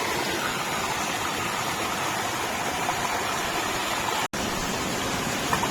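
Steady rush of flowing water from a forest stream fed by a waterfall, with a split-second dropout about four seconds in.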